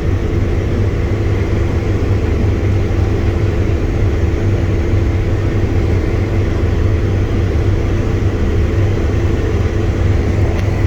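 Combine harvester running steadily at working speed, a deep, even engine rumble with a constant hum over it and no change in level.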